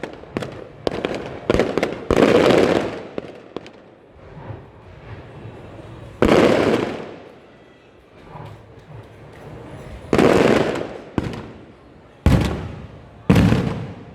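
Firework shells bursting overhead. A quick cluster of sharp bangs comes in the first two seconds, then single loud booms follow every one to four seconds, each dying away in a rolling echo.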